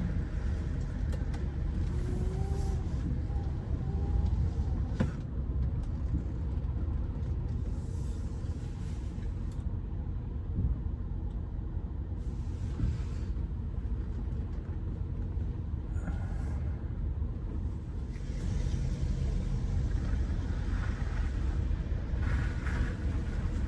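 A car engine running slowly with a steady low rumble, as a car creeps into a parking space.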